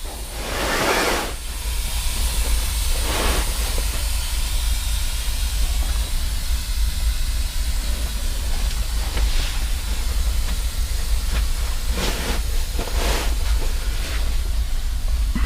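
Freight train at close range: a steady low rumble under a broad hiss, with louder hissing surges about a second in, around three seconds, and twice near the end.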